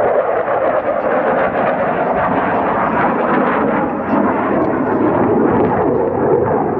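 F-16 Fighting Falcon's General Electric F110 afterburning turbofan engine, a loud, steady jet rush as the fighter flies its demonstration, the pitch of the roar shifting slowly.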